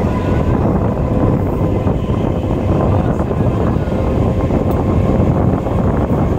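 Steady rumble of a BEML stainless-steel EMU local train running along the track, heard on board with wind rushing in at an open door or window, and a faint steady whine underneath.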